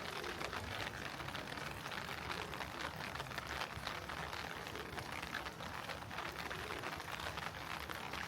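Heavy rain falling steadily, a dense patter of drops with no let-up.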